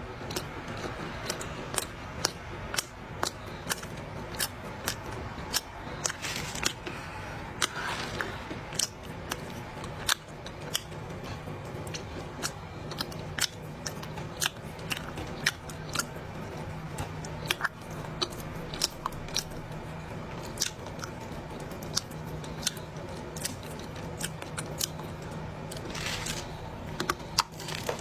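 A mouthful of dry clay being chewed close to the microphone: irregular sharp crunches, about two a second.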